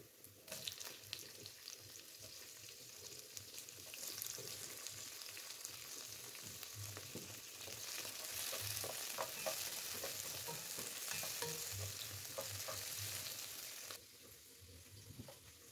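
Onions and chopped tomatoes sizzling in oil in a non-stick frying pan, stirred with a wooden spatula that scrapes and taps against the pan. The sizzle grows louder partway through and cuts off abruptly near the end.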